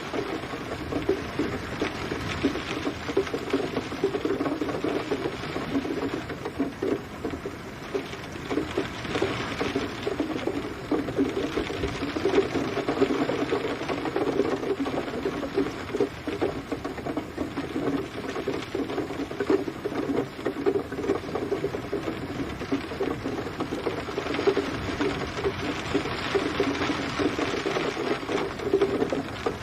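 Steady rain pattering in a dense crackle of drops, swelling and easing every few seconds.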